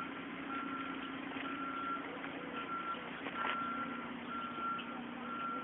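A reversing vehicle's backup alarm beeping about once a second, over a steady engine hum.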